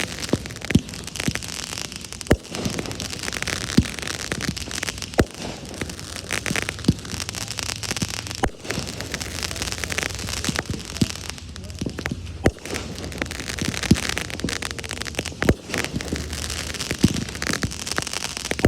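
Fireworks display: a continuous crackling, with sharp bangs about every second and a half.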